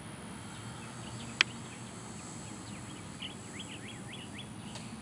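Outdoor ambience: a steady low rumble of breeze, one sharp click about a second and a half in, and a quick run of short high chirps from a bird after about three seconds.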